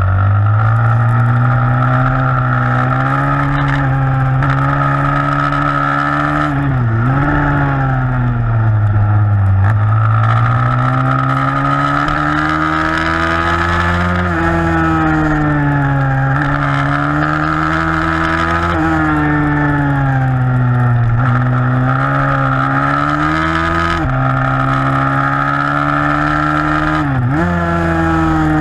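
160cc pitbike's single-cylinder four-stroke engine racing hard, its revs rising and falling steadily with the throttle. The revs drop sharply and pick up again about seven seconds in and again near the end.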